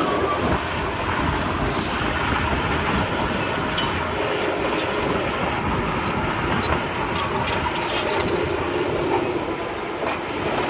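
Heavy diesel construction machinery running steadily, with scattered short metallic clicks over the engine noise.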